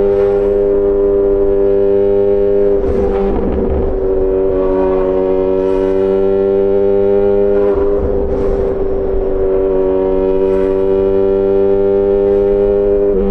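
Yamaha XJ6 S's 600 cc inline-four, breathing through an SC-Project aftermarket exhaust, running under way at steady, nearly unchanging revs. Several short bursts of rushing noise cut in over it.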